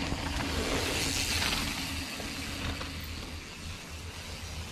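A mountain bike rolling past downhill, its tyres hissing on the dirt trail; the sound swells and fades over about the first three seconds.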